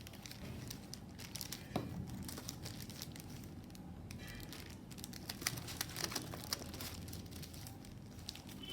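Packaging crinkling and rustling in the hands, with irregular small crackles and clicks, as craft supplies are unpacked.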